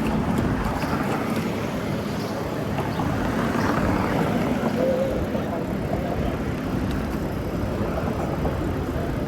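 Steady rush of wind and road noise from riding a bicycle along city streets, with traffic around.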